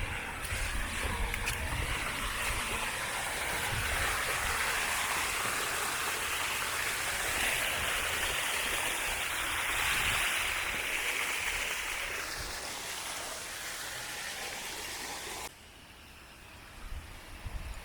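Steady rushing of water from a mountain waterfall running full, swelling a little midway, then dropping abruptly to a quieter hiss about fifteen seconds in.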